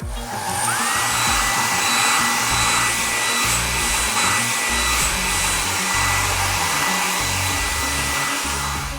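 A car-wash sound effect: a steady, loud rushing hiss of blown air or spray, with a whine that rises under a second in and then holds, over background music.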